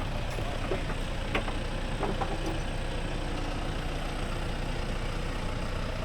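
An engine idling steadily, with a low, even rumble.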